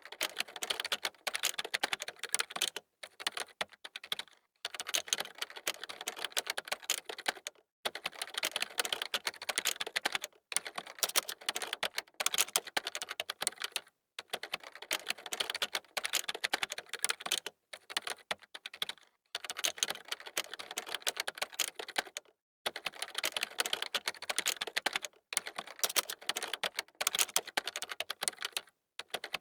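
Fast typing on a computer keyboard: dense runs of quick key clicks, broken every few seconds by short pauses.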